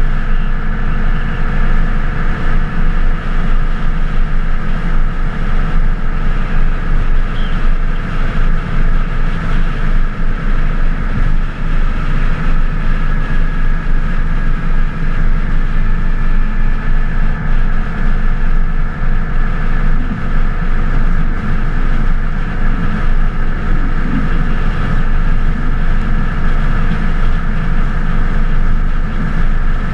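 Twin-turbo 24-valve Cummins inline-six diesel running at a steady speed under way, with a low rumble and an even drone that holds its pitch.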